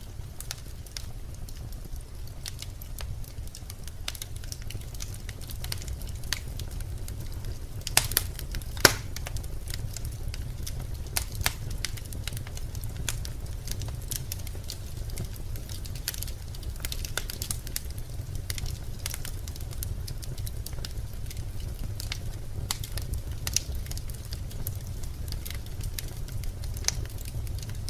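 Birch logs burning in a fireplace: a steady low rumble of flame with irregular sharp crackles and pops, two louder pops about a second apart near the middle.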